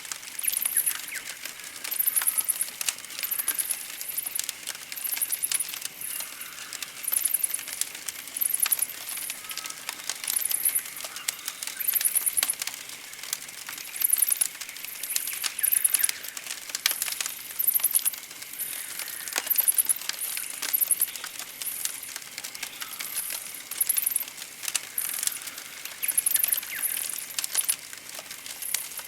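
Campfire crackling with frequent sharp pops and snaps, under a high chirping trill that repeats every second or two.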